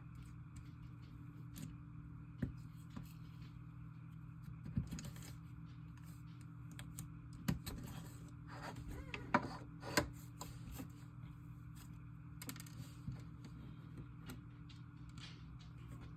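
Icy slime being poked, stretched and squished by hand, giving scattered clicks and crackles with a denser run of them about nine to ten seconds in, over a steady low hum.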